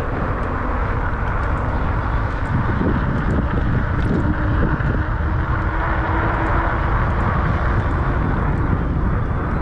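Steady rush of wind and road noise from riding a 500-watt Ecotric fat-tire electric bike, with a faint steady hum joining for a few seconds in the middle.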